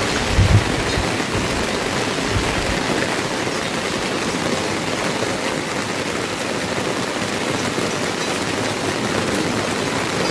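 Heavy rain falling steadily, an even hiss, with a few low bumps in the first second.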